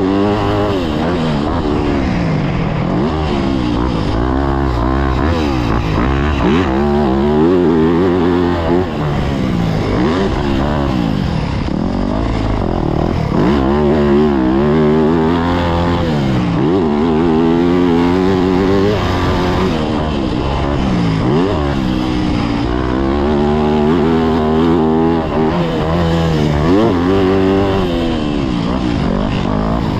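Yamaha YZ250F's four-stroke single-cylinder engine being ridden hard, its pitch climbing again and again under throttle and dropping off between, as on the jumps and corners of a motocross lap.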